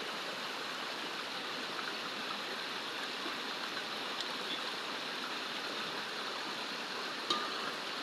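Steady rush of a flowing stream, with one short click near the end.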